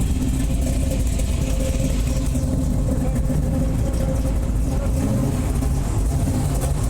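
Car engine idling steadily, a low, even rumble.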